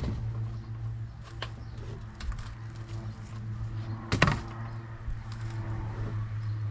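Scattered knocks and clatter of loose wood and gear being moved about inside a small boat's hull, with one louder knock about four seconds in, over a steady low hum.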